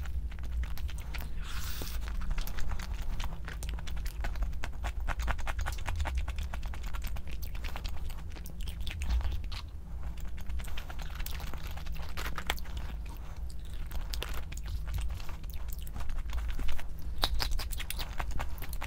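Close-miked chewing of crispy fried food, a dense run of crisp crunches and bites over a steady low hum.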